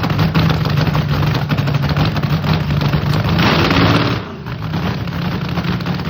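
Nitromethane-fuelled railcar dragster engine idling, a rapid, sharp crackle of firing pulses over a steady low drone. A brief louder surge about three and a half seconds in, after which it runs noticeably quieter.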